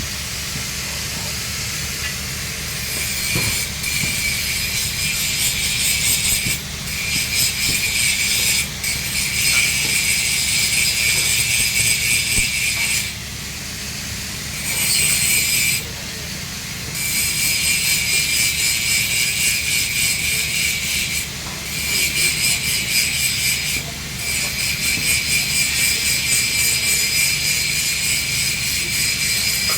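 An angle grinder grinds a steel pipe with a high, whining screech. The grinding breaks off for a moment several times, with one longer pause about thirteen seconds in, over a steady low hum.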